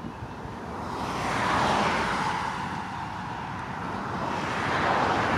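Cars passing on a highway: tyre and road noise swells as one vehicle goes by about a second and a half in, fades a little, then rises again near the end as another approaches.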